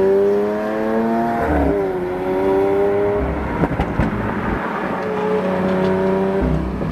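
A car engine running with a steady pitched note that climbs slightly and then drops about a second and a half in, shifting pitch again twice later, with a few faint clicks near the middle.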